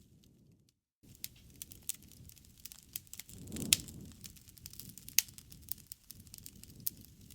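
Wood fire in a fireplace crackling, with irregular sharp pops over a low rumble and one louder pop about halfway through. The sound drops out completely for a moment before the first second.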